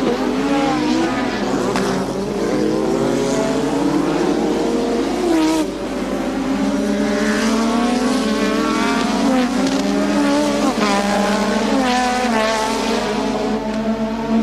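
Several Formula One cars' 1.5-litre turbocharged engines running at race speed. Their pitches overlap and keep rising and falling.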